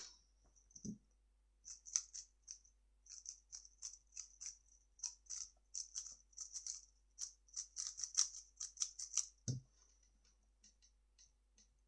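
A 3x3 speedcube being turned fast during a timed solve: a quick, uneven run of plastic clicking turns lasting about eight seconds. It ends in a low thump near the end, the solve being stopped.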